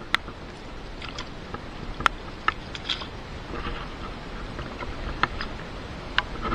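Scattered sharp ticks and taps, a few seconds apart and at irregular intervals, over a steady low outdoor rumble.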